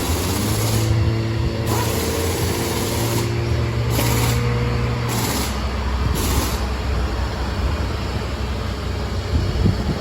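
Tow truck running: a steady engine or machinery drone for about the first five seconds, which then drops away and leaves general mechanical noise.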